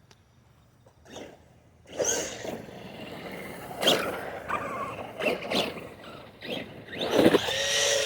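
Arrma Big Rock RC truck driving in bursts: its electric motor and drivetrain whine up and down with rough, noisy surges. It starts about two seconds in after a near-quiet start, and is loudest near the end.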